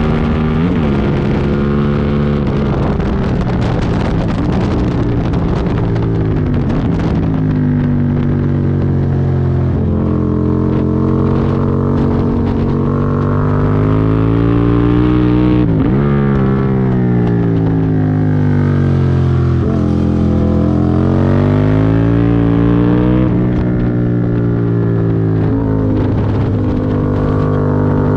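Aprilia Tuono V2 1000's V-twin engine at racing speed. Its pitch climbs and falls over and over as the bike accelerates down straights and brakes into corners, with sudden breaks at the gear changes.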